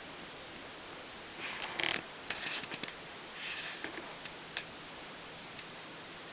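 Steady low hiss with a few brief, soft rustles and small clicks close to the microphone, the loudest a little under two seconds in.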